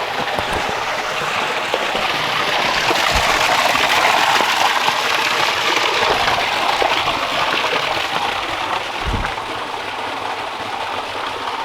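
Rushing water of a small stream or cascade, a steady hiss that swells in the middle and eases near the end.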